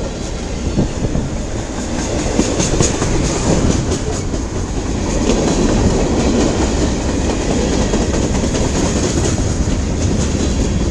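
CN mixed freight train rolling slowly past: a steady rumble of steel wheels on rail with scattered clicks.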